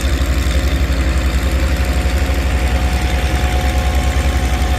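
Antique pulling tractor's engine idling, a steady, even low throb.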